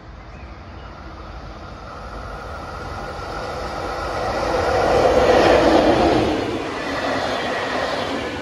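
An intercity train hauled by a MÁV class V43 'Szili' electric locomotive running through, getting louder to a peak about five to six seconds in and then easing off a little.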